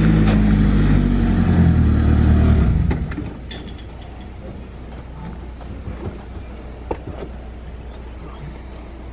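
Car engine running with uneven revs, then switched off about three seconds in. A low steady hum and a few light clicks follow.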